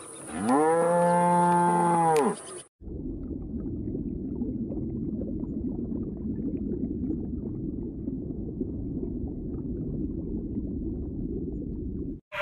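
A cow mooing once, a drawn-out call of about two seconds that rises and falls in pitch. It is followed by a long, steady, low rumble.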